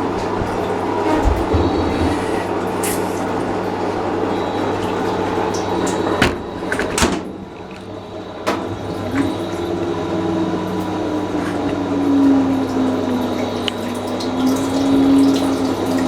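Fisher & Paykel washing machine with water rushing through it and a steady low hum. There are a few sharp knocks around the middle, and a humming motor tone comes in about nine seconds in.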